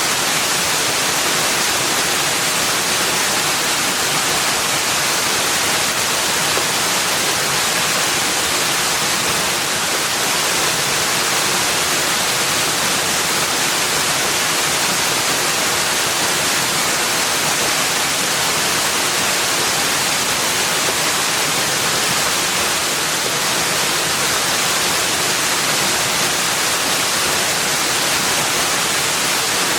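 Steady rushing hiss of flowing or falling water, even throughout, with no birds or other sounds standing out.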